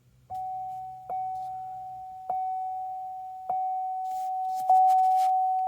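2012 Chevy Equinox's dashboard warning chime sounding right after the ignition is switched on: one steady tone struck five times, about one strike every second and a quarter, each fading before the next, then cutting off. A low hum underneath stops about two seconds in.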